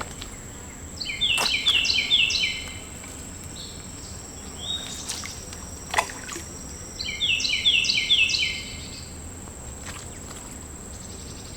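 A songbird singing twice, about a second in and again about seven seconds in. Each time it gives a quick run of repeated, down-slurred double notes lasting a second or two. A steady, thin, high insect drone runs underneath.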